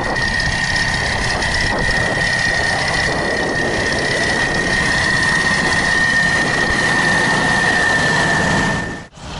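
Snow-clearing tractor's diesel engine running steadily under load, with a steady high-pitched whine over it that sinks slightly in pitch. The sound drops out abruptly for a moment near the end.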